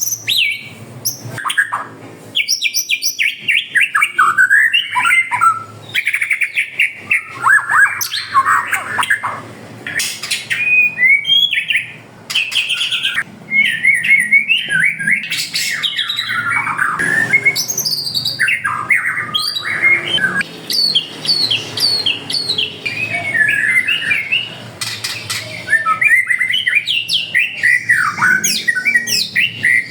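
Several caged songbirds singing and calling at once, a dense tangle of quick repeated chirps and whistled phrases that overlap with no break.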